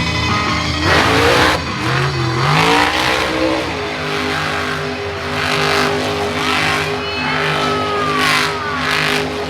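Monster truck engine revving hard, its pitch rising and falling, with several short bursts of noise over the engine.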